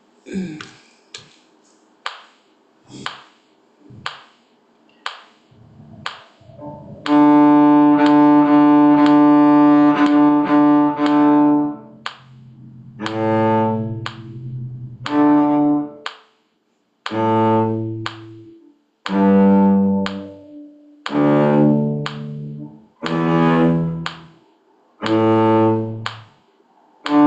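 Low bowed string instrument playing. It starts with a few seconds of short, clipped strokes, then holds one long bowed note, then plays a run of separate notes about one a second.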